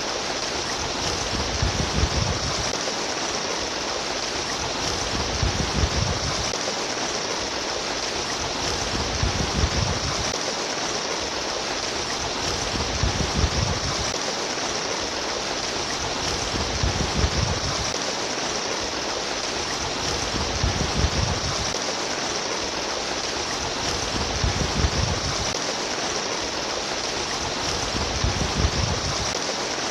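Water trickling and babbling steadily, with a low rumble beneath it that swells and fades about every four seconds.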